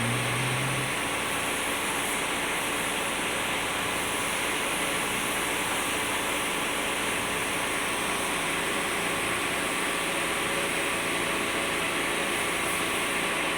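A machine running steadily: a constant hiss with a faint, even hum through it.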